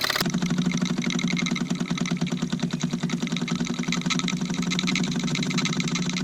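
Mamod TE1A toy steam traction engine's single oscillating-cylinder steam engine running fast, with a rapid, even chuffing beat over a steady hum.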